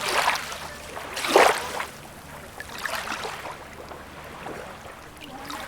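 Small sea waves washing in at the shoreline in short splashing surges, the loudest about a second and a half in, then a quieter stretch of fizzing water.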